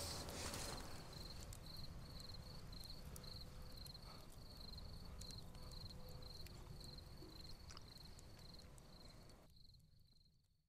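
Faint crickets chirping at night, a regular high chirp about three times a second over a low background hiss; it all fades to silence near the end.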